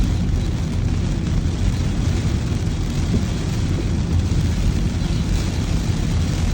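Steady low rumble of a vehicle on the move, with a fainter hiss above it.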